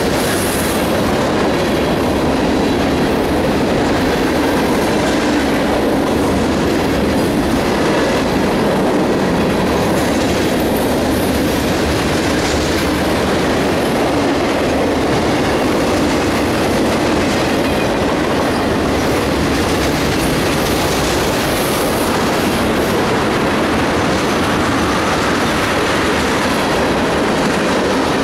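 A CSX manifest freight train's cars (covered hoppers and boxcars) rolling steadily past at close range. The sound is a continuous rumble of wheels on the rails that holds the same level throughout.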